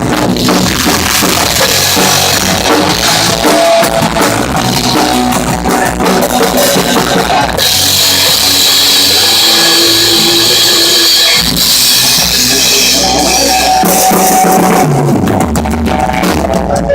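Rock music with a full drum kit and guitar playing steadily.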